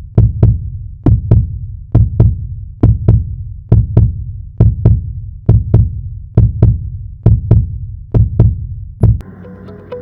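Heartbeat sound effect: low double thumps, lub-dub, repeating a little faster than once a second. It stops about nine seconds in, when electronic music with sustained tones begins.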